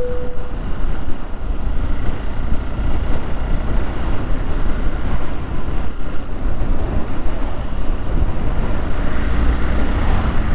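Steady, loud wind noise on the camera microphone of a motorcycle being ridden, with vehicle noise underneath. A brief steady tone fades out about half a second in.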